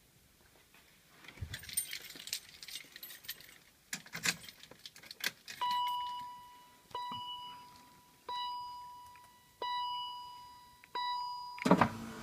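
Keys jangling and clicking, then the BMW E39's warning chime sounding five times, about one and a third seconds apart, each note ringing out and fading. A loud thump comes near the end.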